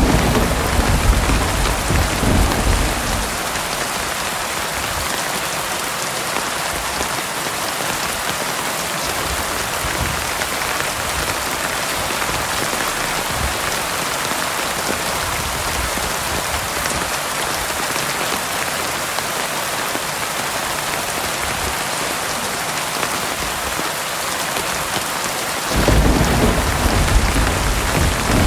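Heavy rain falling steadily, a dense even hiss. Thunder rumbles low during the first few seconds and again near the end.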